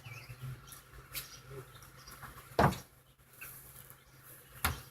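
Two sharp knocks about two seconds apart, the first the louder, over a faint low hum.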